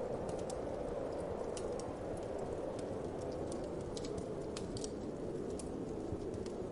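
Wood fire crackling with scattered sharp pops, over a steady whoosh of wind.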